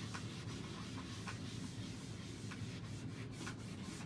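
Quiet rubbing and scrubbing strokes on a chalkboard surface, wiping dried chalk paste off the board. The strokes come irregularly over a low steady hiss.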